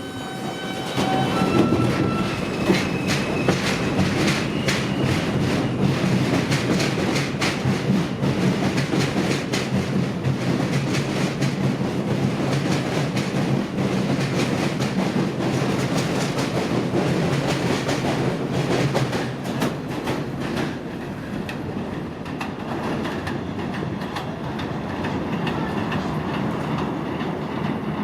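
Ten-car R160A-2 subway train pulling out of the station: a whine rises in short steps as it picks up speed, then the wheels clack steadily over the rail joints as the cars go by, easing off somewhat in the last several seconds.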